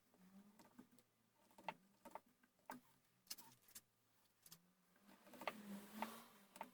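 Faint hand-tool work on a wooden gunstock: scattered light clicks and taps, with a short scraping stretch about five seconds in.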